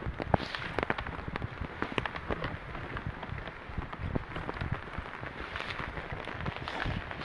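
Rain falling, with many irregular sharp taps of drops over a steady hiss.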